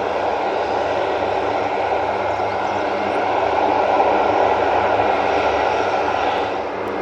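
Military transport aircraft engines running steadily with a droning tone, swelling a little past the middle and easing near the end.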